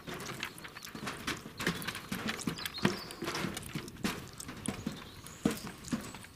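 Footsteps of several people walking on a trail path: irregular knocks and scuffs, several a second.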